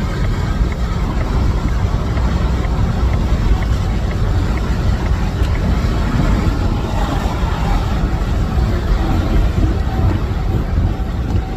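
Steady low rumble of a vehicle running on the road, with a faint, regular ticking in the first few seconds.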